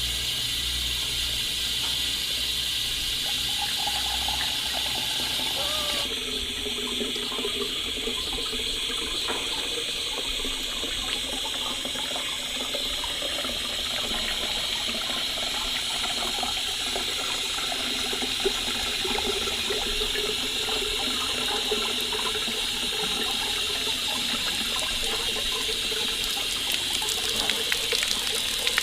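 Water running steadily, like a tap or pipe filling a basin.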